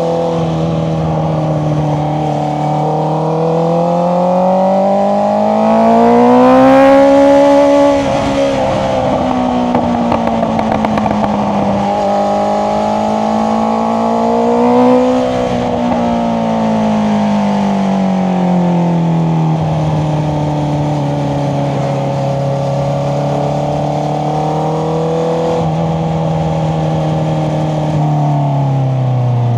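Honda CBR650R's inline-four through an Akrapovic exhaust, revving up and down while riding. The pitch climbs to its loudest about six to eight seconds in, then a few seconds of rapid crackling follow on the overrun. It rises again briefly at about fifteen seconds and settles lower toward the end.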